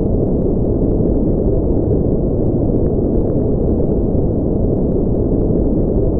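Continuous generated noise for sleep and relaxation: an even, unchanging deep rushing sound with its weight in the low and middle range and no high hiss.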